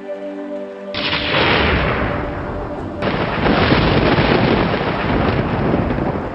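Thunder: a sharp crack about a second in, fading into a rolling rumble, then a second loud clap about three seconds in that rumbles on. Soft music tones are heard before the first crack.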